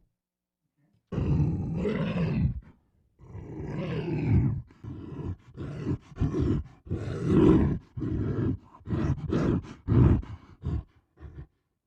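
Movie-monster growls and roars voiced by a human performer, played as a run of separate takes: starting about a second in, two longer growls come first, then about ten shorter ones in quick succession with brief silences between.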